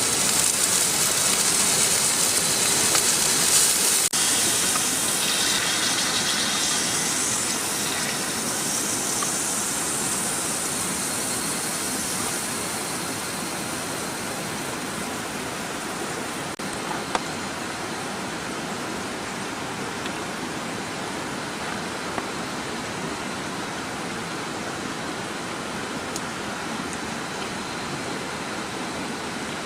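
Steady hiss of rain or running water. Its bright, high part fades over the first dozen seconds, leaving an even, quieter wash with one or two faint ticks.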